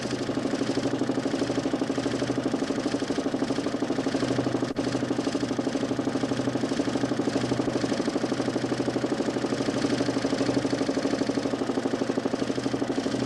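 DC motor spinning a large plywood Nipkow disc in a homemade mechanical television, a steady mechanical drone with a fast, even pulsing flutter.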